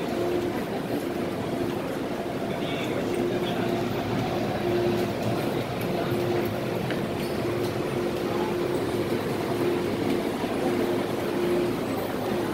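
MTR M-Train electric metro train running, heard from on board: a steady rumble of wheels on rail with a low hum that cuts in and out every second or so.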